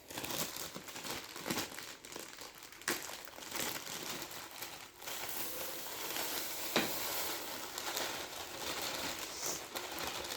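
Plastic packaging crinkling and rustling as it is handled, with a couple of sharp clicks, about three seconds in and again near seven seconds.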